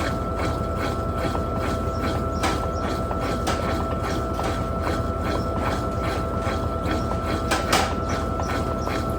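Electrolux LTP15 top-loading washing machine running its final spin, a steady whine over a hum with light ticking about three times a second.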